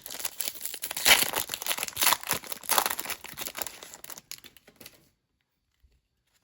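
Plastic-foil trading card pack wrapper being torn open and crinkled by hand, with several sharp louder rips in the first three seconds. The sound stops abruptly about five seconds in.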